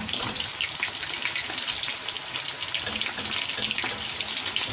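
Breaded chicken pieces deep-frying in very hot oil: a steady sizzle thick with fine crackling.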